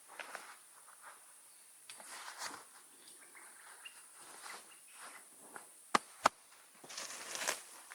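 Quiet handling sounds of food preparation: soft rustles and scrapes, with two sharp clicks or taps a third of a second apart about six seconds in.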